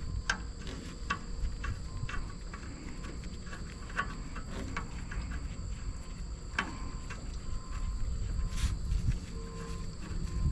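Insects trilling steadily at a high pitch, with scattered light clicks and taps.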